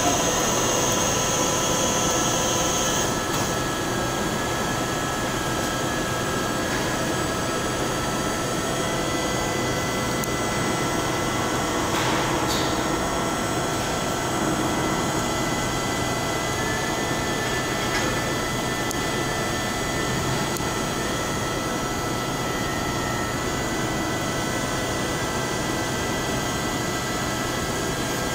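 Mikron WF3DCN CNC milling machine running: a steady mechanical hum with several high whines from its motors and drives. The whines shift partway through, one high whine stopping about three seconds in and another starting a little past halfway, with a couple of short clicks near the middle.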